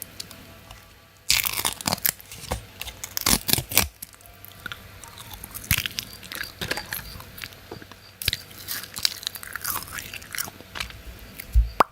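Someone biting and chewing crunchy food close to the microphone: a run of irregular crisp crunches starting about a second in, easing off, then coming again later, with a dull thump near the end.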